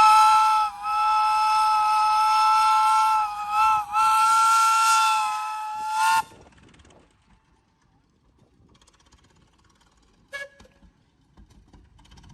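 Steam whistle blowing one long chord of several notes, dipping briefly twice, then cutting off sharply about six seconds in. A single short click comes near the end.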